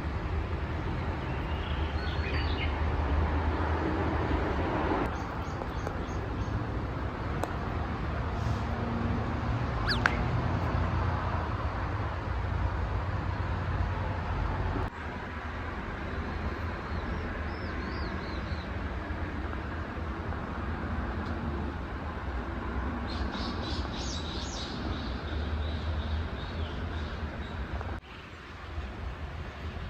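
Small birds chirping in short phrases now and then, a little after the start, around two-thirds through and in a longer run near the end, over a steady low background rumble.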